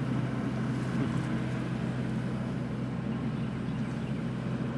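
Diesel engine of heavy equipment running steadily at constant speed, a low even hum with no distinct knocks or changes.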